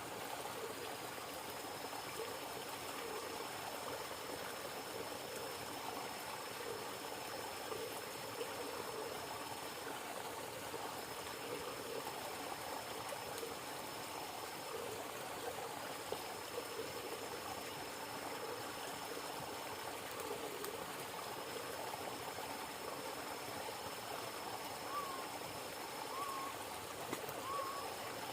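River water flowing steadily, a constant rushing. Over it runs a thin high steady tone that stops and restarts every few seconds, and a few short faint chirps come near the end.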